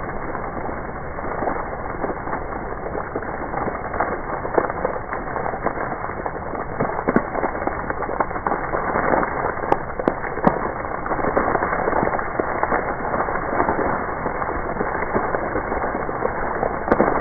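Heavy rain pouring down, a steady hiss dense with the crackle of individual drops striking, a little louder in the second half.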